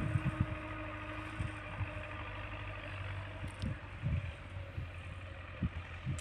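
Tractor engine running steadily as it pulls a plough through the field, with irregular low thumps over the hum.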